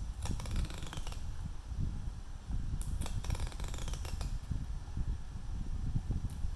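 Clicks and scraping of small hand tools working on a phone, over a steady low handling rumble, with two stretches of falling high-pitched squeaks.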